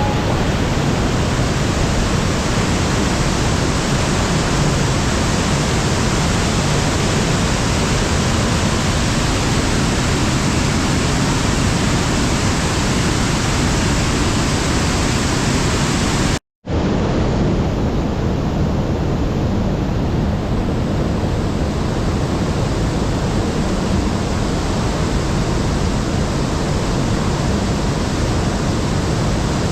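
Waterfall rushing steadily, a dense even wash of falling water heavy with spring flow. The sound cuts out for an instant about halfway through, then continues unchanged.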